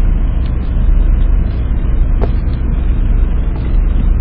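Car driving, heard from inside: a steady low rumble of engine and road noise, with a brief click about two seconds in.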